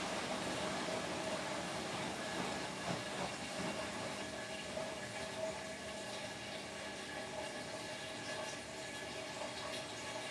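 Beko WTK104121W washing machine running mid-cycle: a steady mechanical whirr with a held hum in it.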